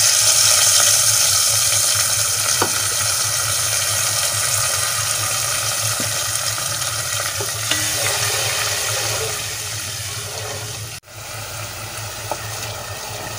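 Whole and ground spices sizzling in hot oil in a pan while the masala roasts with a splash of water. The sizzle is loudest at first and dies down gradually. Near the end it drops abruptly and a spatula stirs the masala.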